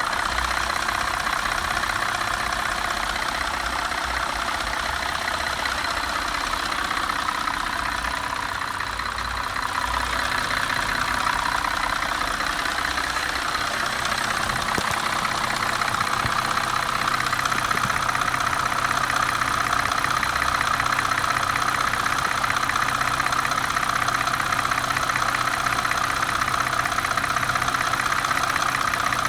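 2004 Cadillac CTS engine idling with a steady, rapid ticking, which the owner places on the passenger side of the engine and cannot explain.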